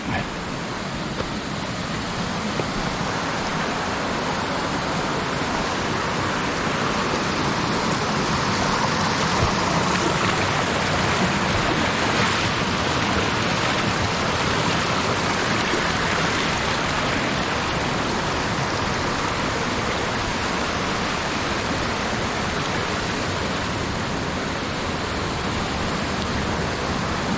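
Mountain stream rushing and splashing over rocks in a steady, loud wash of water noise, swelling a little partway through.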